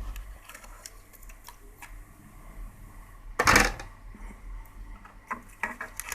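Light clicks and taps of hands and tools handling a portable radio cassette recorder's plastic casing and cassette mechanism, with one louder burst of noise lasting about half a second a little past halfway, over a low steady hum.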